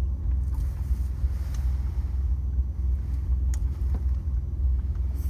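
Low, steady engine rumble of a big truck heard from inside the cab, with a single light click about three and a half seconds in.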